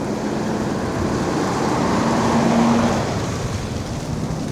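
Steady rushing noise of wind and snow under the wheels while riding an electric scooter through a snowstorm, swelling louder in the middle, with a faint steady hum underneath.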